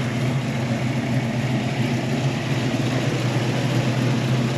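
1972 Chevrolet Malibu's engine idling steadily.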